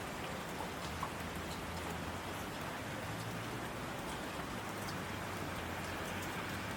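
Steady rain with a dense hiss and scattered individual drop ticks, over a faint low steady hum.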